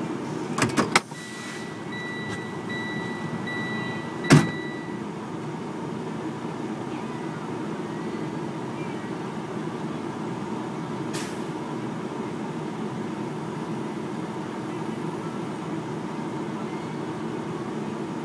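Truck engine running steadily. About a second in come a few sharp clicks, then a single loud knock a few seconds later, and for a few seconds a high, pulsing beep sounds.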